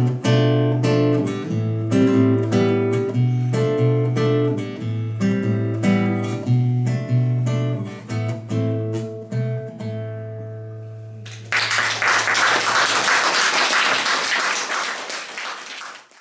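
Acoustic guitar playing the instrumental close of a sung-poetry song, strummed chords ending and the last chord ringing out about ten seconds in. Audience applause then breaks out suddenly for about four seconds and cuts off.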